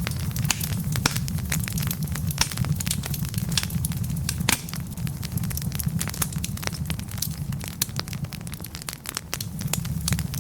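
Wood fire burning in a fireplace, logs crackling and popping irregularly over a steady low rumble of flame.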